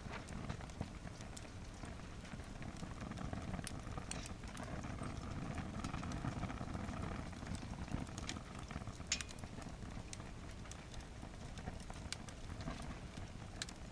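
Wood fire burning hard in a campfire stand: a steady low rush of flames with scattered crackles and pops, one sharper pop about nine seconds in.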